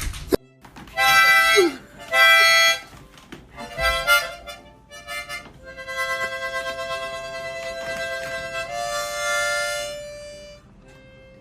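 Harmonica played: two short blasts, then a long held note that steps down in pitch and fades away.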